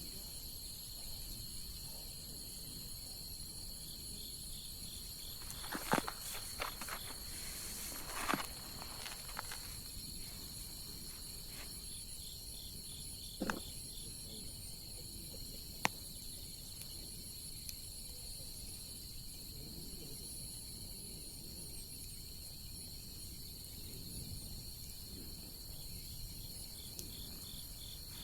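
Insects, likely crickets, trilling steadily in a high, continuous chorus, with a few sharp pops and crackles from a burning wood bonfire, mostly in the first half.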